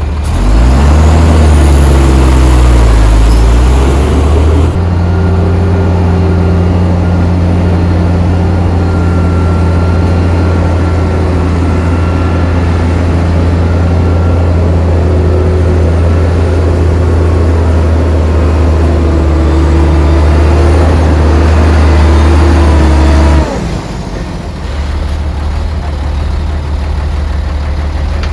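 Heavy diesel engine of earthmoving machinery, its revs rising and falling for the first few seconds, then held high and steady under load. About five seconds before the end it drops suddenly to a lower, quieter idle.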